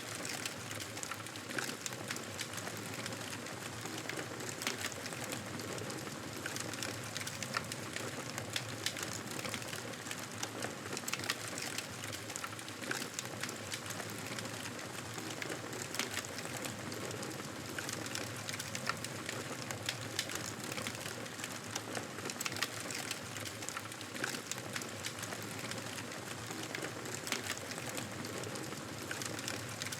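Wood fire in a fireplace crackling steadily: a constant soft hiss with frequent irregular small pops and snaps.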